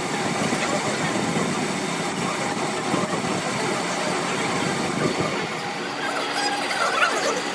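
A machine running with a steady, noisy drone; the sound thins and changes about five and a half seconds in.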